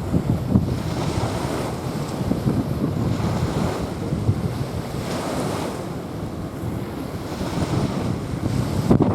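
Small waves washing onto a sandy beach, the wash surging every two to three seconds, with wind buffeting the microphone.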